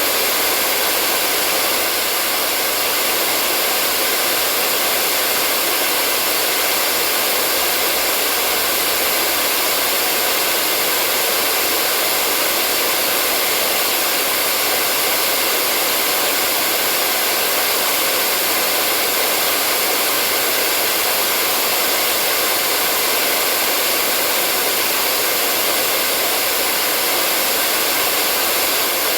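Hair dryer running steadily: a constant rush of blown air, mostly high hiss with a faint steady whine, unchanging throughout.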